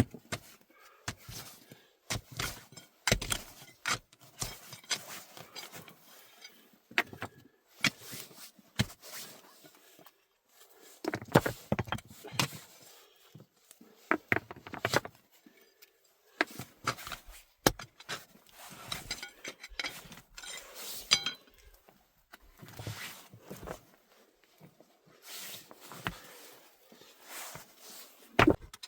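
Irregular knocks, taps and clinks of objects being handled, coming in uneven clusters with short pauses between.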